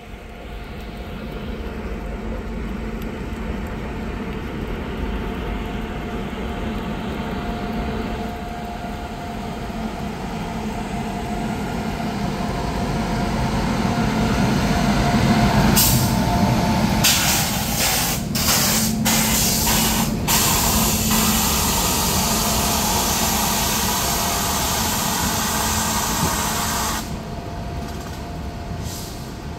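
Freight train hauled by a WAG-9 three-phase electric locomotive passing in heavy rain, with a steady hum and a low rumble that builds to a peak about halfway through. A loud hiss comes in just after the middle and stops abruptly near the end.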